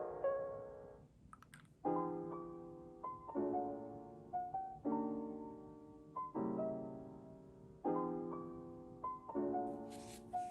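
Soft background piano music: slow chords struck about every second and a half, each left to ring and fade, with a short pause about a second in.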